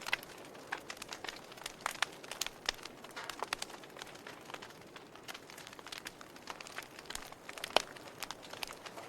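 Wood fire crackling in a fireplace: irregular sharp snaps and pops over a soft hiss, with one louder pop near the end.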